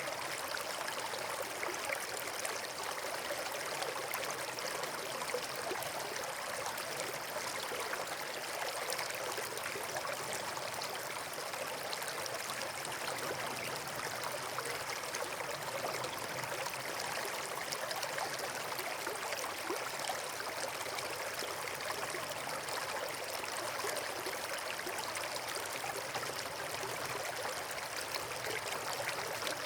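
Steady rushing of flowing water, like a stream or small waterfall, an even hiss with fine splashy detail and no breaks.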